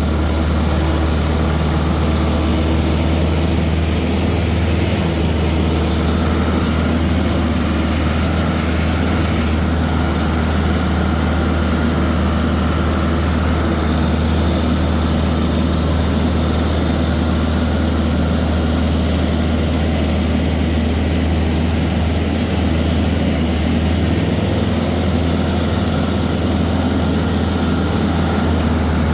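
Tractor engine running steadily while the tractor drives along, a constant low drone with no change in pace.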